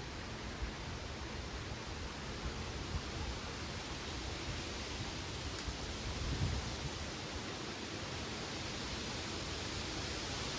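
Wind rustling through the leaves of backyard trees and plants as a steady hiss, with a short low gust about six seconds in.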